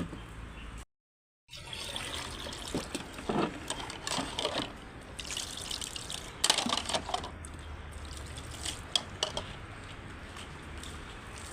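Water being poured and splashed in irregular bursts, several louder splashes among a steady trickle.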